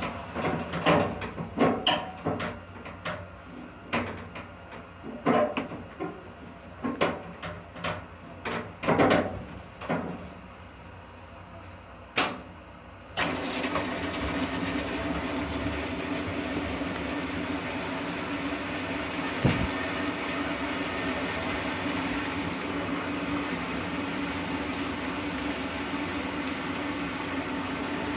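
A run of clicks and knocks from handling a Maytag apartment-size washer. About 13 s in, the washer starts suddenly with a steady rushing noise and a constant hum.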